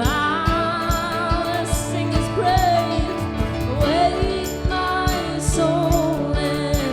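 Live worship band playing an upbeat praise song with a steady drum beat and a sustained melodic line with vibrato over it.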